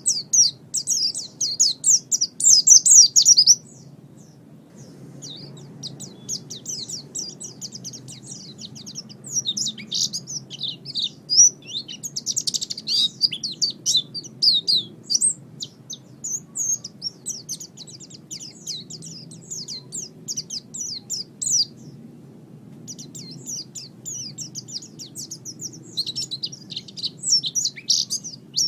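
Pleci (white-eye) singing fast, high, twittering chirps in long runs, with short breaks about three and a half seconds in and again past the twenty-second mark.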